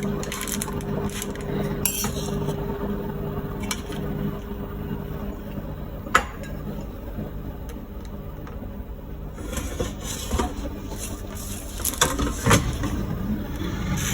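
Marinated chicken pieces being set into an air fryer basket: scattered clicks and knocks of the pieces and basket, over a steady low hum.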